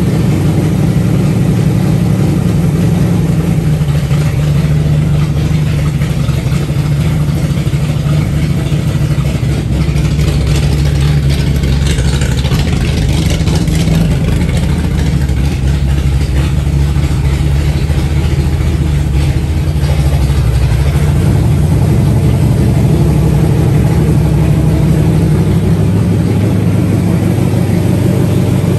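Freshly built 360 stroker V8 running steadily at idle on its first start-up, now fed by its electric fuel pump. A brief hiss rises over the engine about twelve seconds in, and the engine gets slightly louder near the end.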